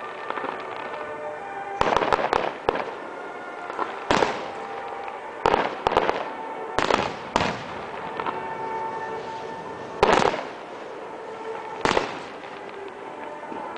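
Fireworks bursting in the air: a string of sharp bangs and crackles at irregular intervals, the loudest about two seconds in and about ten seconds in, over music playing underneath.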